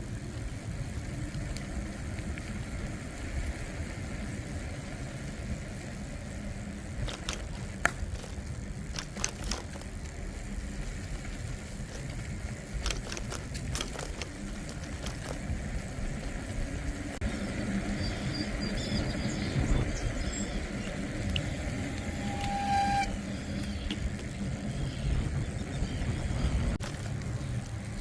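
Steady wind and road rumble from a bicycle on the move, with scattered clicks and rattles and a short pitched tone about three quarters of the way in.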